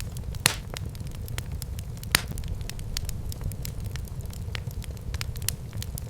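Wood fire burning in a fireplace: a steady low rumble of flames with frequent sharp crackles and pops, two of them louder, about half a second and two seconds in.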